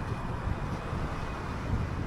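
Steady rumble of a moving city bus, its engine and road noise running low and even, with some wind noise on the microphone.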